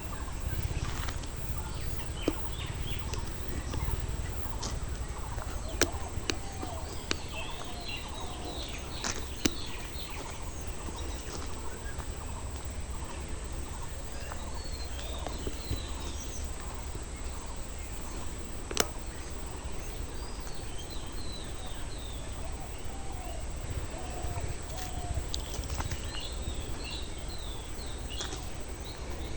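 Several small birds chirping in short repeated bursts, with some lower short calls, over a steady low rumble and a constant thin high tone. A few sharp clicks, the clearest about six, nine and nineteen seconds in.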